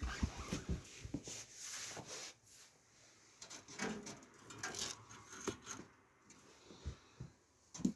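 Irregular clicks, taps and rubbing from power cables and their plastic connectors being handled and fitted, with a denser cluster of knocks in the first second or so.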